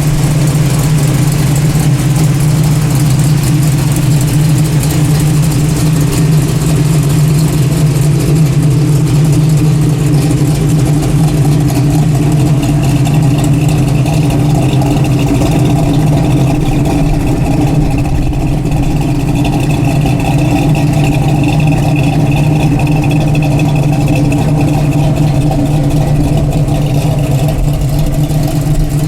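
Small-block Chevrolet V8 of a 1972 Chevy C10 pickup running at a steady, even pace.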